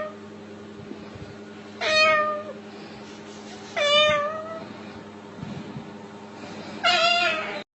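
Three cat-like meows, each about half a second long and falling in pitch, spaced about two to three seconds apart over a steady low hum; the sound cuts off abruptly near the end.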